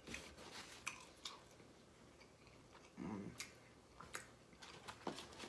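Quiet mouth-closed chewing of fried food, with scattered wet mouth clicks, and a short low hum about three seconds in.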